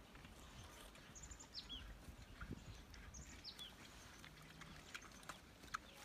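Near silence with faint bird calls: two short, high chirping phrases with falling notes, about two seconds apart, and a few faint ticks and rustles.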